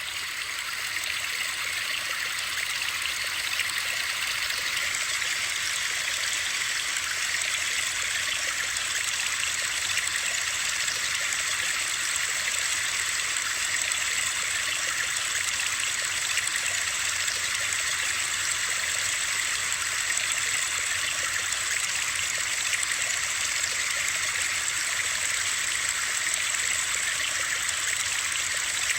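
Steady, unchanging white-noise hiss of rushing water, brightest in the upper range. It rises in quickly from silence at the very start.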